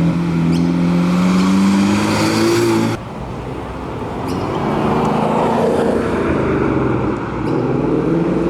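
Car engines driving past under light throttle. A strong engine note climbs slightly in pitch and cuts off abruptly about three seconds in. A second engine then rises in pitch and swells.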